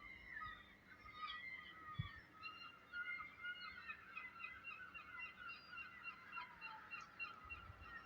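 A chorus of short, pitched animal calls repeating in a steady rhythm of about three a second, with a single brief low thump about two seconds in.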